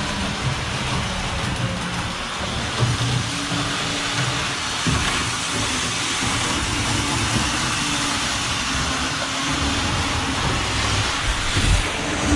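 Model train running on the layout track: a steady running noise from its motor and wheels on the rails, with low hums that come and go.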